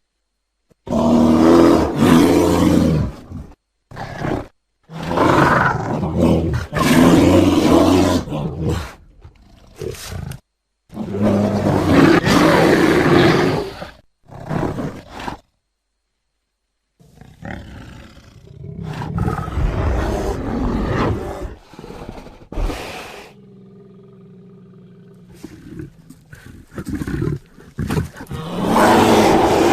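Bear growls and roars in loud bursts of a few seconds each, separated by short silences; past the middle a quieter, more continuous stretch, with another loud roar near the end.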